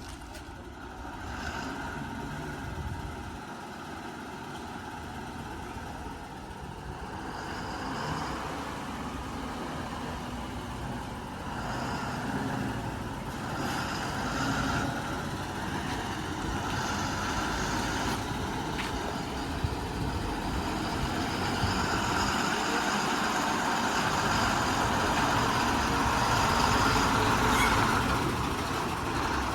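Heavy diesel engine running steadily, growing louder over the stretch.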